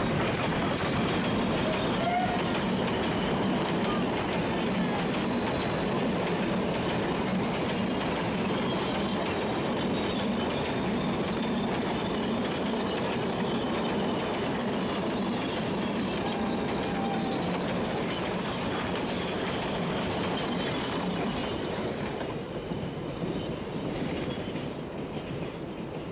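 Narrow-gauge steam train's carriages rolling past close by, wheels clattering over the rail joints with faint wheel squeal; the sound fades away over the last few seconds as the train moves off.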